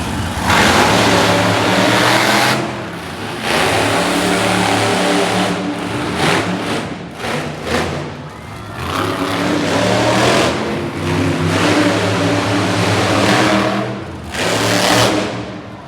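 Monster truck engine revving hard in repeated long surges of throttle, with a run of short quick blips in the middle.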